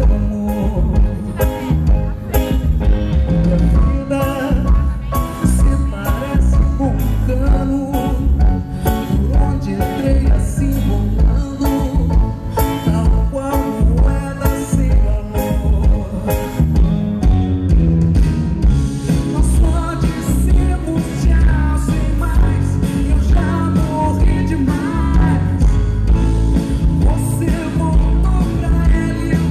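A live band playing a slow soul-style song, with heavy bass, a steady drum beat and a woman singing at times.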